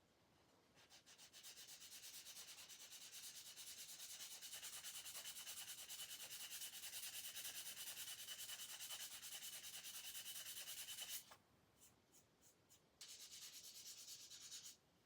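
Faint hand sanding of a plastic model kit part: quick, even back-and-forth strokes that make a dry hiss. The sanding stops about eleven seconds in, a few single strokes follow, then it resumes briefly near the end.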